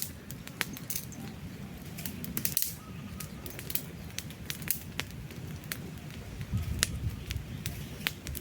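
Wood fire burning, with irregular sharp crackles and pops over a low, steady rumble of the flames.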